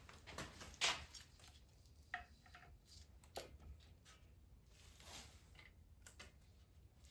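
Faint, scattered clicks and light knocks of metal parts being handled as push rod tubes are fitted into a VW Beetle engine, the sharpest about a second in.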